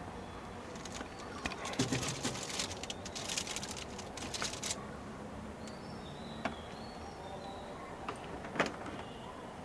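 A quick run of light clicks and rustles for a few seconds, followed by two isolated sharp clicks, with faint short bird chirps in the second half.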